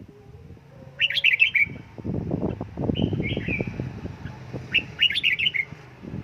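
Red-whiskered bulbul singing three short, quick warbled phrases: about a second in, around three seconds, and near five seconds.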